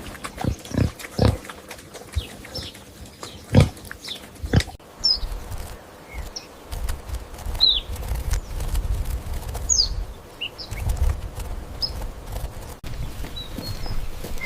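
Pig grunting in short, repeated grunts for the first few seconds. The grunting then stops abruptly, giving way to a low rumble with a few brief high bird chirps.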